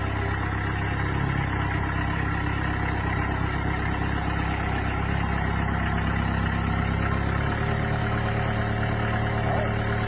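Diesel engine idling steadily, its low drone shifting slightly about three-quarters of the way through.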